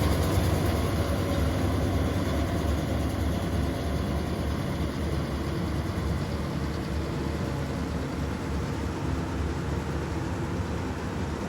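Steady low rumble of an engine running, easing slightly in level over several seconds.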